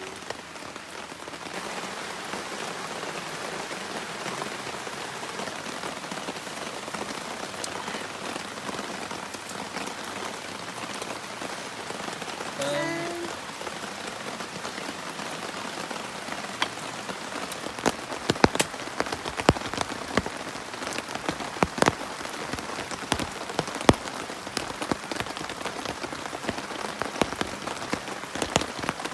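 Heavy rain falling steadily, with loud single drops striking a surface close by more and more often in the second half.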